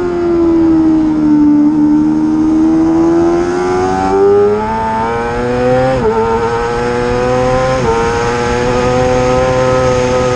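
Racing motorcycle engine running hard at high revs: the pitch sags, then climbs, dips briefly twice about six and eight seconds in as the rider shifts up, then holds a steady high note.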